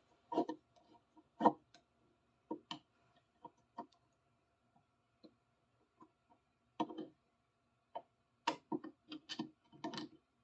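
Scattered light clicks and taps of a screwdriver working a screw out of a large adjustable wrench, with the metal tools knocking as they are handled; the taps come thicker near the end.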